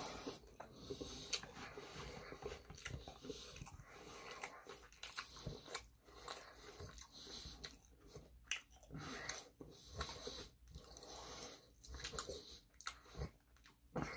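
A person chewing a mouthful of sushi roll: a run of soft, irregular chewing clicks and smacks.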